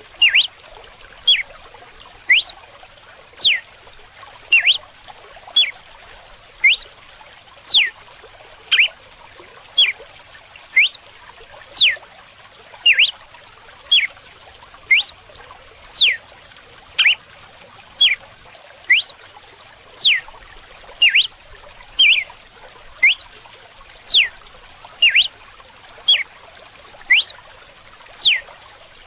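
Red-cowled cardinal (galo-de-campina) singing its whip-like 'açoite' song: short, sharp whistled notes, many sweeping steeply down in pitch, about one a second. Running water trickles steadily underneath.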